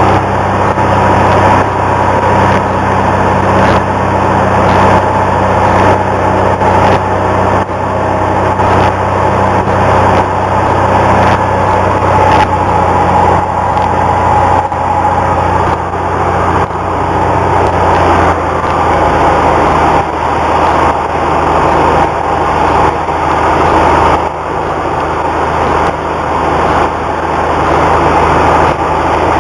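Cessna 172's piston engine and propeller running steadily in flight, a loud even drone over rushing air noise.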